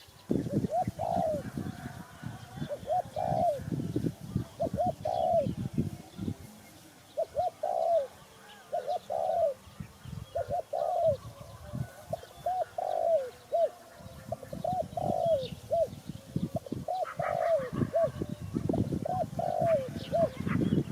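Spotted dove cooing, repeating its short phrase of rising-and-falling coos about every two seconds, with irregular low rumbling underneath.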